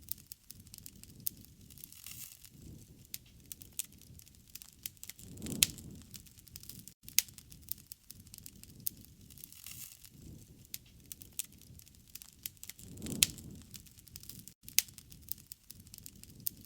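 Wood fire crackling, with frequent sharp pops over a low rumble of flames. The fire swells louder twice, about five and a half seconds in and again near thirteen seconds.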